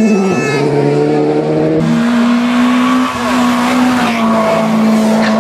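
Rally car engine running hard at fairly steady revs, its pitch dropping about half a second in and settling higher near two seconds, over a hiss of tyre and gravel noise.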